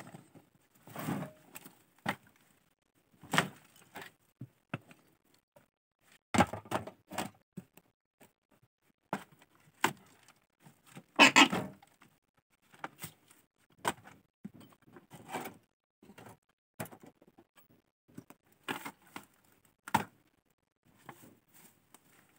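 Irregular knocks, thuds and clattering of hard objects being struck and moved about, in separate bursts with short quiet gaps; the loudest cluster comes about eleven seconds in.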